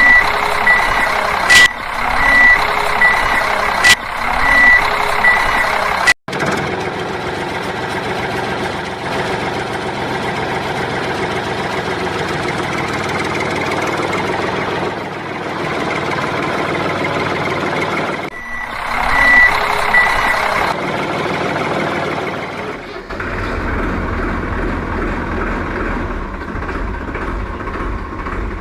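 Truck reversing alarm beeping steadily over engine noise for about the first six seconds, then engine noise alone, with the beeping back briefly around eighteen seconds in. A lower engine rumble takes over near the end.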